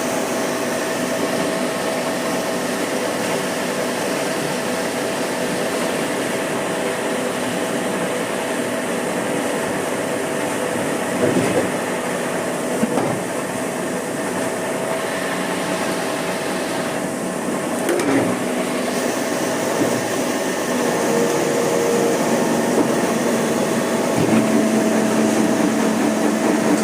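Workshop machinery used in making cooler fan blades, running with a steady hum and a constant whine. A few short knocks come about eleven, thirteen and eighteen seconds in, and a lower steady tone joins near the end.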